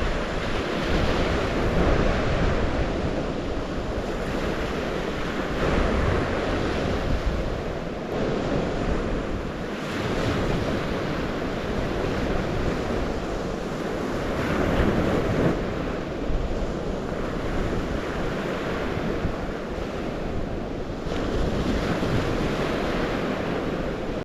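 Water waves washing in a steady surge that swells and eases every few seconds, with wind rumbling on the microphone. The sound cuts off suddenly at the very end.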